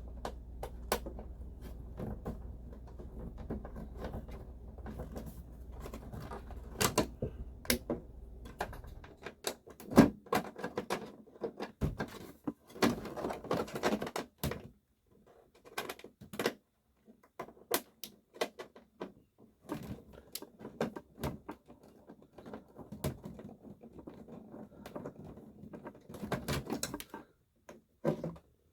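Irregular clicks, knocks and rattles of hands working on plastic dashboard trim and parts, with a low steady hum underneath that stops about nine seconds in.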